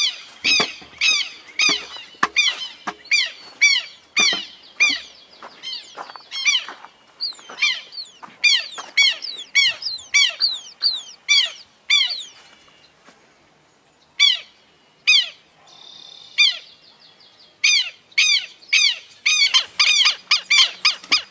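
Birds calling over and over in short, harsh calls, about two a second, with a brief pause a little past halfway and a quicker run of calls near the end.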